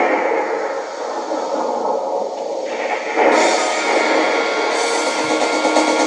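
Karaoke backing track of a hard-rock song's instrumental intro, with guitar, playing thin and without deep bass. It fills out into brighter, fuller sound about three seconds in.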